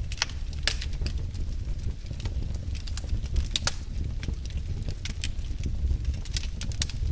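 Wood fire burning in a fireplace: a steady low rumble of flames with frequent sharp, irregular crackles and pops of burning firewood.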